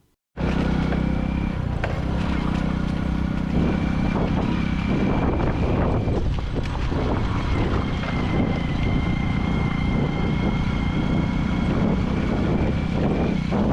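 Motorcycle engine running steadily as the bike is ridden through the jungle.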